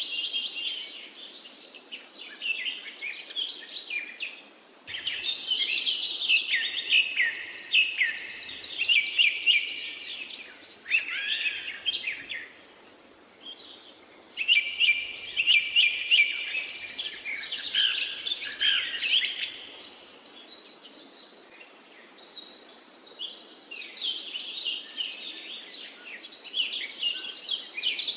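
Songbirds singing, several overlapping chirping phrases in bursts of a few seconds each, with brief lulls between them.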